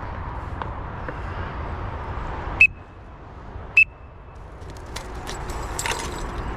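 Two short, high, single-pitched blasts of a falconer's recall whistle, about a second apart, calling a golden eagle in to the lure.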